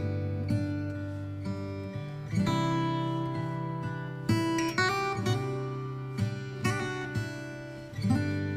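Background music: plucked acoustic guitar playing chords and short melodic notes.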